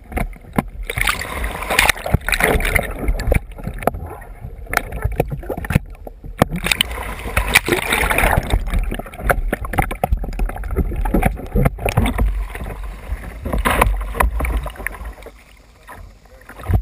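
Water splashing and sloshing around a kayak in uneven surges, with short knocks and a steady low rumble underneath.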